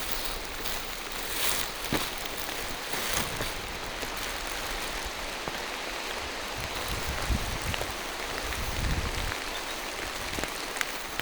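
Steady rain falling through forest trees, a dense even hiss with scattered drop ticks, and occasional soft low thumps.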